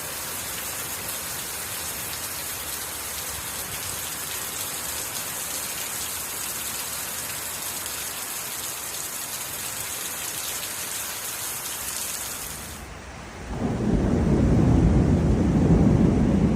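Heavy rain falling with a steady hiss. About three seconds before the end it gives way to a louder, deep rumble.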